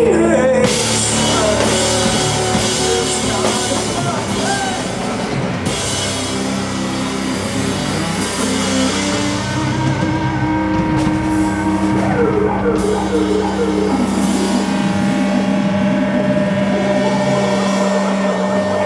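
Rock band playing live: an instrumental passage with drum kit and long held notes over a steady, dense wash of sound.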